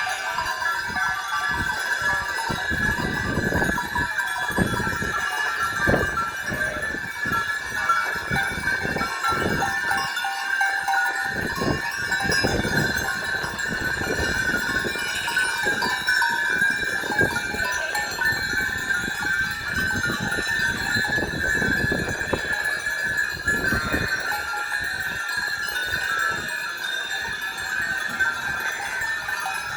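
A flock of sheep with bells jingling and clanking over a steady high-pitched ringing, with irregular low rustling of the animals moving.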